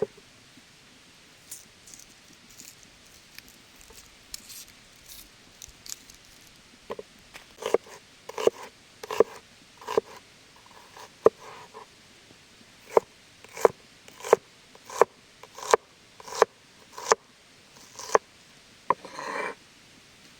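Knife chopping on a cutting board: scattered single strikes at first, then a steady run of chops about one every 0.7 seconds, with a short scrape near the end.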